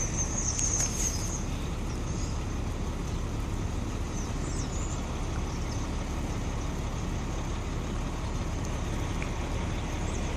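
Steady low rumble of city street traffic, with brief high squeaks in the first second and again about halfway through.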